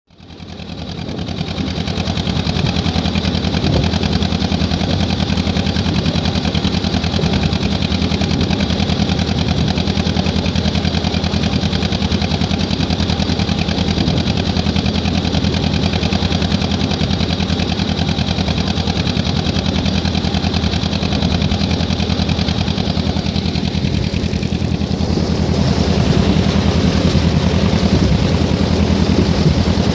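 Historic working narrowboat's diesel engine running steadily at a low, even beat, fading in over the first couple of seconds.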